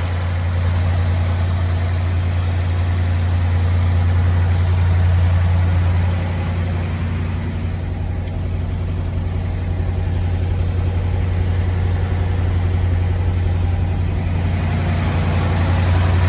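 1957 Ford Thunderbird's V8 engine idling smoothly and steadily, holding high idle after a cold start.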